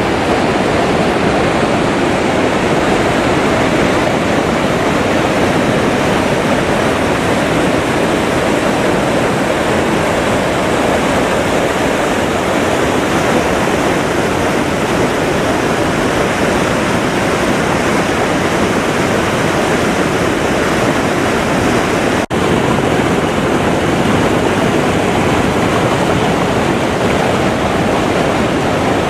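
Loud, steady rush of a powerful river waterfall, with a momentary break about two-thirds of the way through.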